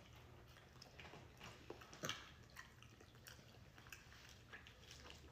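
Faint close-up chewing with soft, wet mouth clicks, one a little louder about two seconds in.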